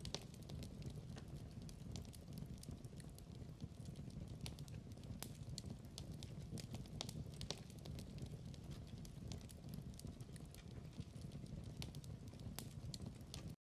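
Wood fire crackling in a fireplace: a steady low rumble of flame with frequent sharp pops and snaps at irregular intervals. The sound cuts out to dead silence for about a second near the end.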